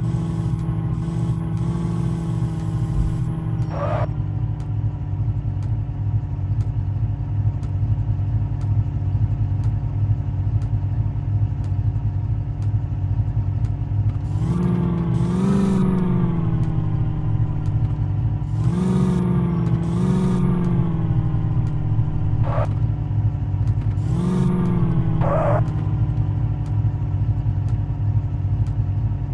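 Tractor's diesel engine running steadily, its revs rising and falling several times in the second half.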